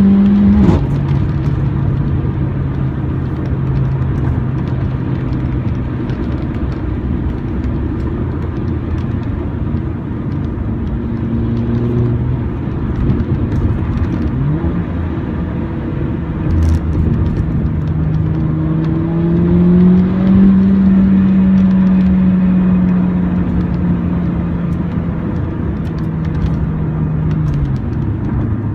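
Mercedes-AMG CLA45's turbocharged 2.0-litre four-cylinder engine under way in sport mode. The engine note drops sharply just after the start as it shifts up, holds steady, then climbs twice under acceleration before falling again near the end.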